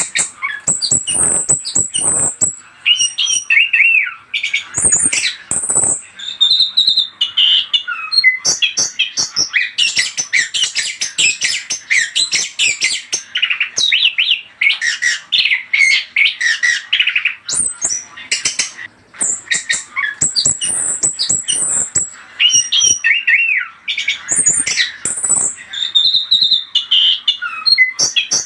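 Orange-headed thrush (anis kembang) singing a loud, rapid, varied song of whistles, chirps and harsher notes, broken by a few short pauses.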